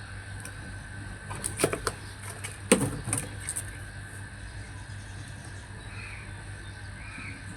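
A few sharp clicks and knocks of hard parts being handled, the loudest about three seconds in, over a steady low hum.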